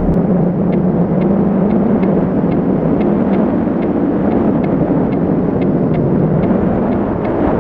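Wind rushing and buffeting over the microphone of a camera carried on a paraglider in flight, a steady loud rumble. Faint regular ticks come about three times a second through it.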